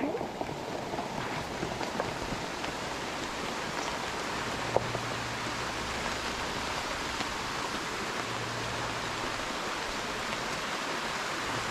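Steady rushing hiss of running water, with one faint click about five seconds in.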